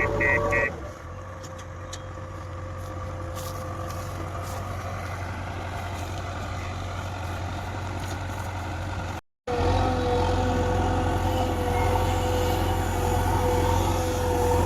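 Heavy machine's diesel engine running steadily with a low hum and a steady whine. A reversing alarm beeps rapidly at the start and stops less than a second in. After a brief cut about nine seconds in, the engine is louder.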